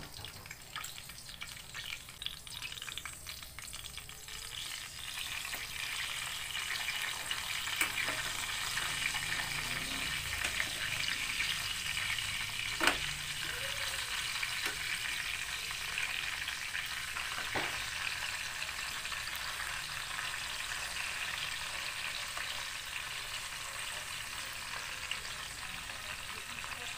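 Pork chops sizzling as they fry in hot oil in a pan, a steady hiss that grows louder about five seconds in. A few short knocks come as the chops are turned with a metal slotted spatula.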